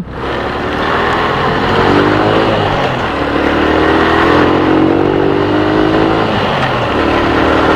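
Motorcycle engine accelerating, picked up by a helmet-mounted camera mic, its pitch climbing twice with a drop about three seconds in, over steady road and wind noise.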